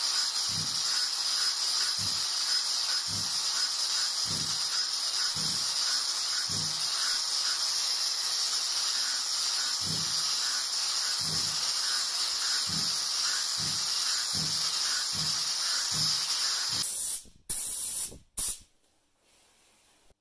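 A steady high hiss with soft low thumps about once a second. It cuts off abruptly near the end, leaving near silence.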